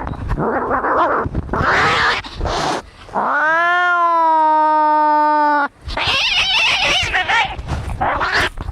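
Angry cats fighting: rough, noisy snarls and hisses, then one long drawn-out yowl about three seconds in that rises and then holds steady for over two seconds, followed by more harsh snarling and hissing.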